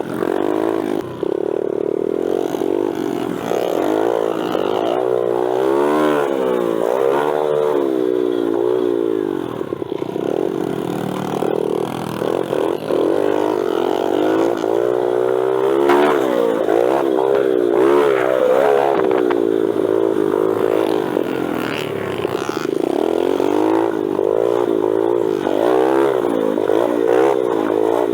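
Small single-cylinder four-stroke pit bike engines revving up and falling back again and again as the bikes are ridden, the pitch rising and dropping every second or so.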